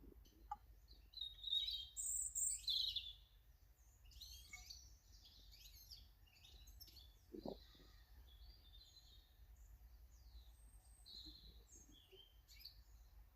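Small garden birds chirping and twittering in a series of short, high calls, loudest in the first few seconds, with a soft low thump about halfway through.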